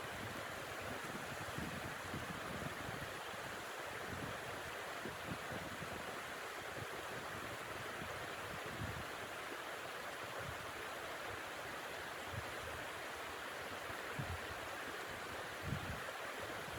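Steady rushing blizzard wind, with irregular low gusts buffeting the microphone.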